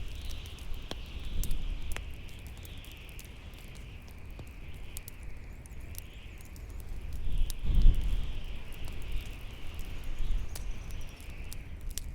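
Bonfire crackling with scattered sharp pops over howling wind: a wavering high hiss and low gusting rumble that swells loudest about eight seconds in.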